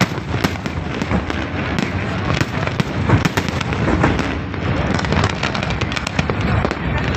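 Fireworks going off in rapid, continuous succession: a dense run of bangs and crackles.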